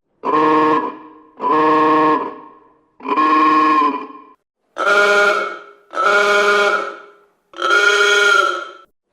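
Police vehicle horn sounded in six steady blasts of about a second each, evenly spaced. The first three are at one pitch and the last three at a slightly higher pitch.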